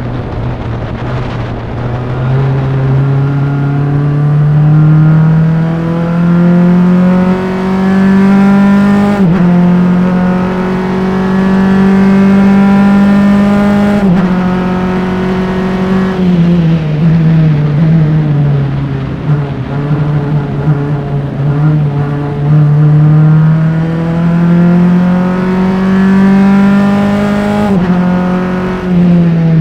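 Single-seater race car engine at full throttle, recorded on board. Its pitch climbs steadily with a small step about 9 seconds in, drops away around 16 seconds, then climbs again over about ten seconds until a gear change near the end.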